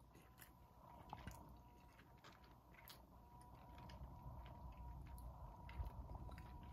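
Near silence with faint chewing of a mouthful of pasta, a few soft clicks scattered through it.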